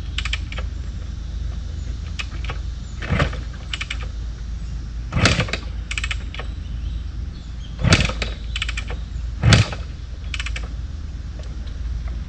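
A 1974 Kawasaki KS125 being kick-started: four sharp knocks of the kick-start a couple of seconds apart, with lighter clicks between, and the engine not catching.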